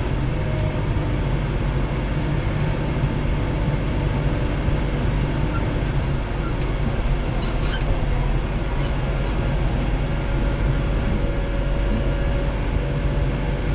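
Kubota L3940 compact tractor's diesel engine running steadily under load, heard from inside the tractor's cab while it pushes snow.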